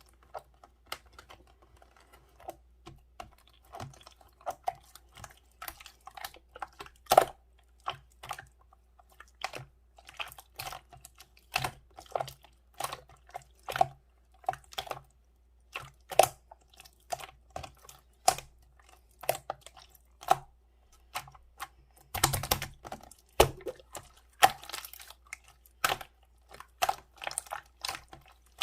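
Irregular clicking and tapping, a few clicks a second in an uneven rhythm like typing on keys, with a denser flurry of clicks about 22 seconds in.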